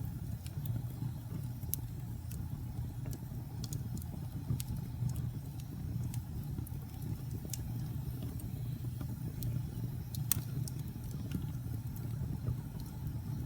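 Wood fire burning in a fireplace: scattered sharp pops and snaps over a steady low rumble, with one louder pop about ten seconds in.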